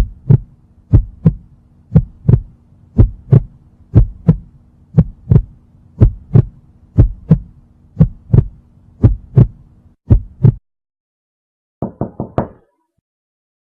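Heartbeat sound effect: a steady lub-dub of paired low thumps, about one beat a second, stopping abruptly after about ten seconds. About a second later come four quick knocks on a door.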